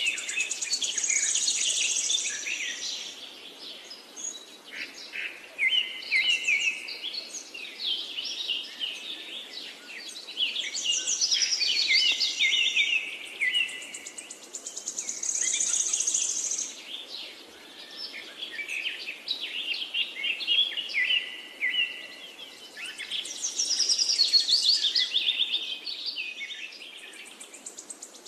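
Songbirds chirping and trilling in repeated bursts of quick notes, a few seconds apart.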